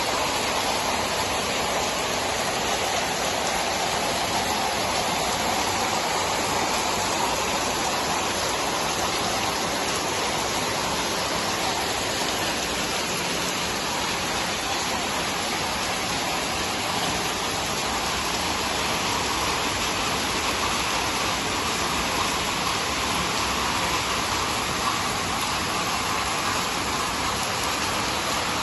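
Steady rain falling: a constant, even hiss with no breaks or distinct drops standing out.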